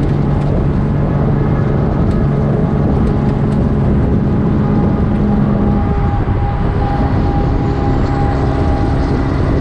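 Kenworth W900 semi truck's straight-piped diesel engine running under steady power, its pitch shifting slightly about six seconds in.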